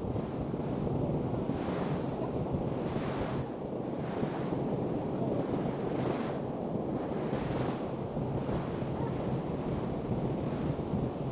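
Ocean surf washing on the shore, with wind buffeting the microphone in gusts.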